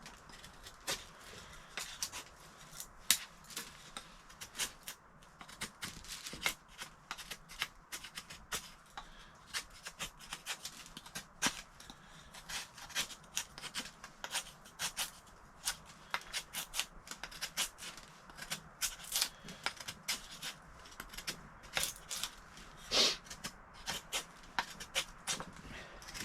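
Irregular sharp clicks and crackles, several a second, with louder snaps about 3 and 23 seconds in.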